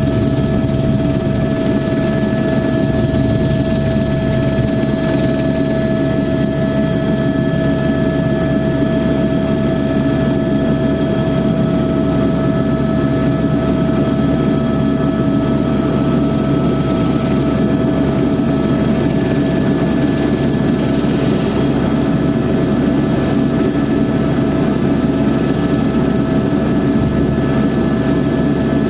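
Helicopter in flight: a loud, steady drone of engine and rotor with several constant whining tones riding over it.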